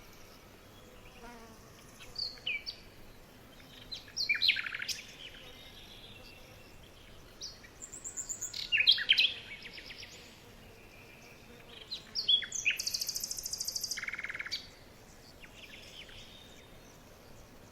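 Small birds chirping in several separate bursts of quick, falling chirps, with a buzzy trill lasting about two seconds near the middle-end.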